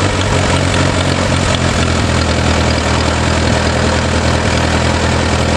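A 1948 Allis-Chalmers crank-start tractor engine running steadily at idle.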